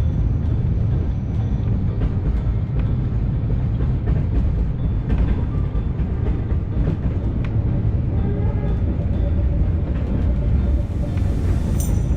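Narrow-gauge passenger train running: a steady low rumble of the carriage on the move, with frequent sharp clicks and knocks from the wheels and rails.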